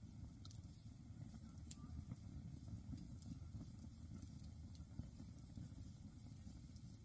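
Faint wood campfire crackling, with a few sharp pops scattered through, over a steady low rumble.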